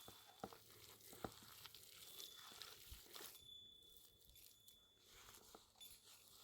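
Near silence: faint room tone with a few soft clicks and light crinkling.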